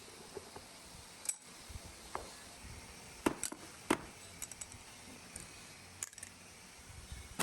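Scattered clinks and knocks of hand tools on metal engine parts, a few separate strikes with the two loudest close together about halfway through.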